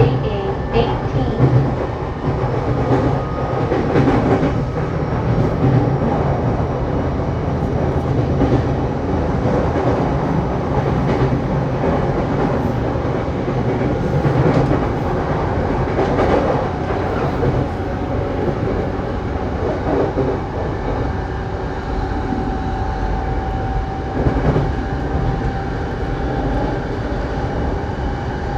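Saikyo Line electric commuter train running at speed, heard from inside the car: a steady rumble of wheels on rail, with occasional clacks as the wheels pass over rail joints.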